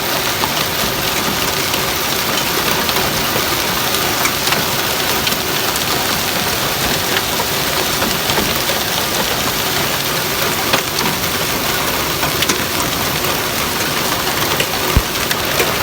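Hailstorm: a dense, very noisy clatter of hailstones striking the pavement and nearby surfaces, scattered with sharper single hits from larger stones and one loud hit near the end.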